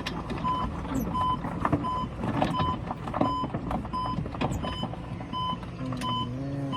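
Golf cart's reverse warning beeper sounding in reverse, a steady high beep repeating about three times every two seconds, with scattered clicks and knocks around it.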